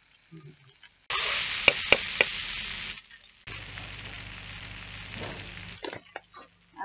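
Shredded vegetables frying in a hot black wok over a wood fire, sizzling as a metal spatula stirs them, with a few sharp clinks of the spatula on the pan. The sizzle starts abruptly about a second in, is loudest for two seconds, then drops and carries on more softly until near the end, where a few knocks follow.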